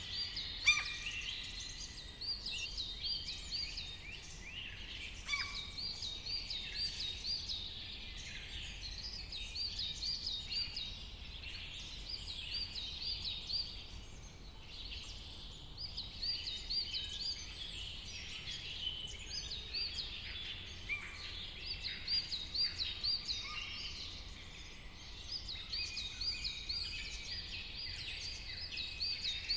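Several forest birds singing at once, their songs overlapping. One bird repeats a phrase of quick, high, hooked notes every few seconds.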